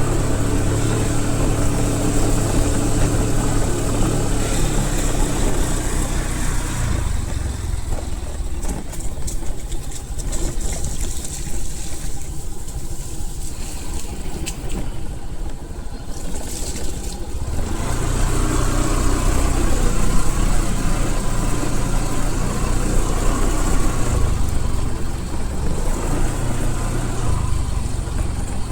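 A vehicle engine running steadily with a low rumble, which eases for about ten seconds in the middle before returning.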